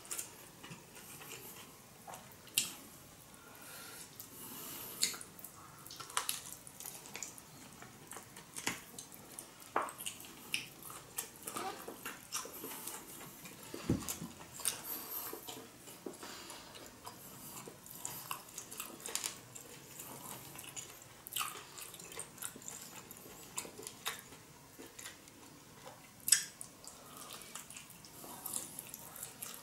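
Close-miked chewing and wet mouth sounds of someone eating octopus nigiri sushi: irregular soft clicks and smacks, with a sharper smack near the end.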